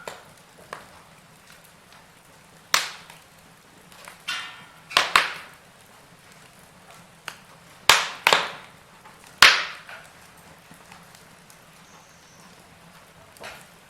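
Burning logs crackling: irregular sharp pops, about five loud ones in the middle stretch among smaller ticks, over a faint steady hiss.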